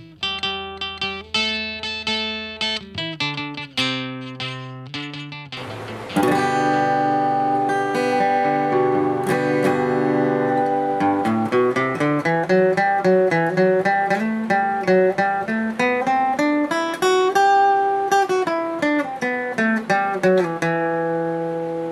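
Acoustic guitar being played with plucked single notes, then about six seconds in a louder, fuller fingerpicked passage with notes ringing over one another.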